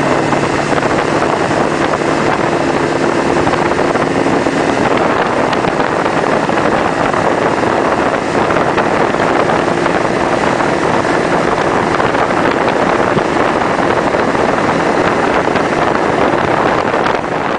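1999 Ford Power Stroke 7.3-litre turbo-diesel V8 running under load while towing a heavy trailer, its exhaust and engine drone mixed with a steady rush of wind and road noise. The engine's tones are plainer in the first few seconds, and then the rushing noise dominates.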